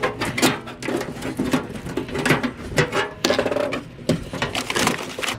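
Hand tools working against the sheet-metal housing of an old microwave to free a bolted-in part: a rapid, irregular run of metallic clicks, knocks and rattles.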